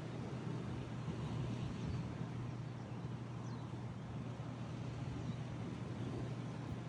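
Steady rush of ocean surf and wind on the microphone over a constant low hum, with one faint short chirp about three and a half seconds in.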